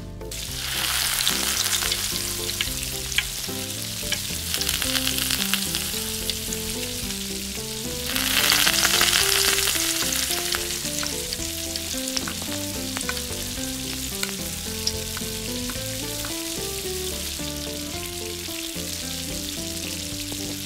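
Food sizzling as it fries in hot oil in a miniature pan. The sizzle starts abruptly, swells loudest about eight seconds in, and carries a few light clicks.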